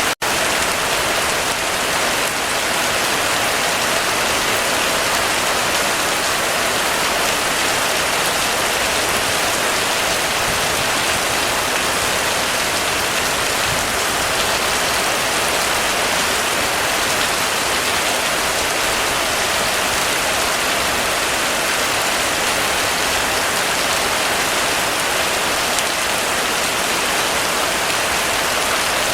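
Heavy rain falling steadily and evenly, with a momentary dropout just after the start.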